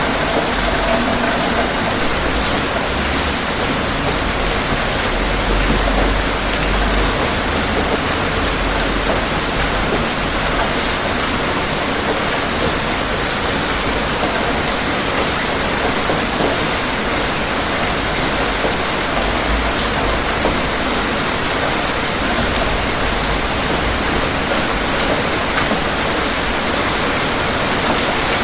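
Steady rain falling and pattering on surfaces, a dense, even hiss of drops.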